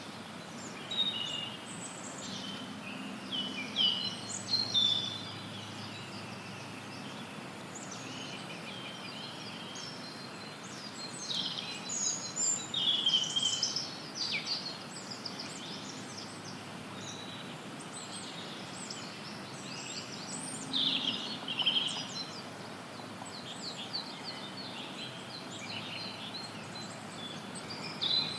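Songbirds chirping and trilling in several bouts over a steady hiss of white noise.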